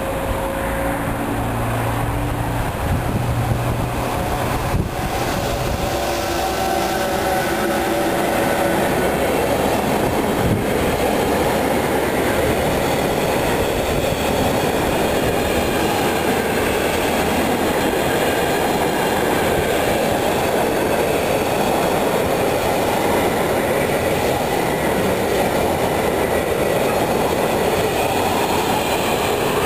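Electric-hauled intermodal container freight train passing close by. A steady hum comes from the approaching locomotive over the first few seconds, then the container flat wagons roll past in a continuous loud rush of wheel and rail noise.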